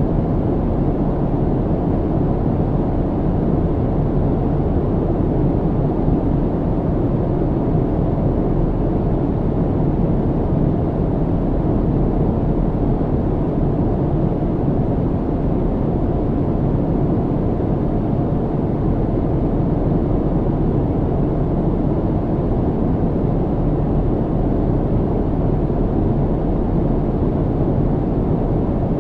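Airplane cabin noise in flight: a steady, deep rumble of engine and airflow with no changes.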